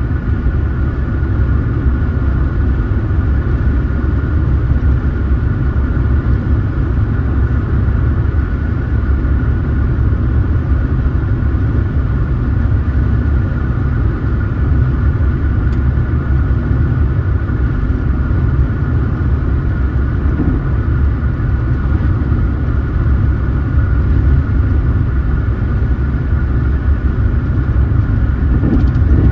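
Car driving at steady speed: a constant low rumble of engine and road noise that does not change.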